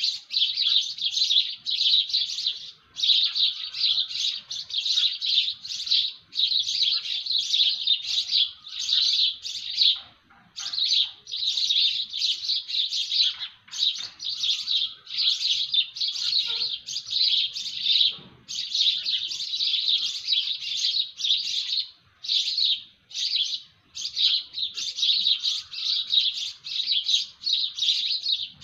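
Small birds chirping in a dense, almost unbroken stream of quick high chirps, with a few short pauses.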